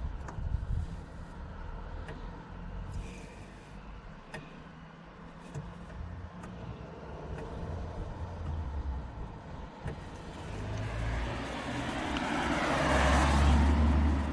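A car passing by: a low rumble with tyre noise that swells over the last few seconds and then falls away. Small scattered clicks sound throughout.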